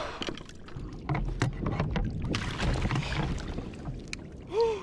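Knocks and thumps on a kayak hull with water splashing as a big yellowfin tuna is hauled aboard, and a short straining grunt near the end.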